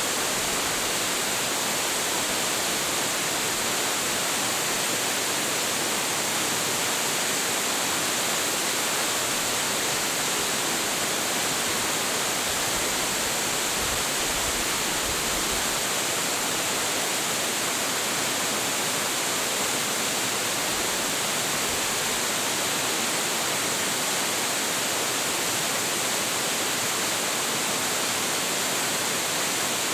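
Large waterfall, Hiji Falls' 25.7 m drop of heavy flow, crashing steadily: an even, unbroken rush of water noise, bright in the highs.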